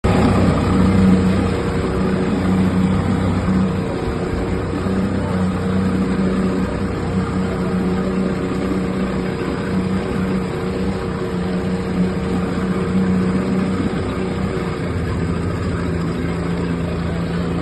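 Tour boat's motor running steadily with a low hum, its note shifting slightly lower near the end.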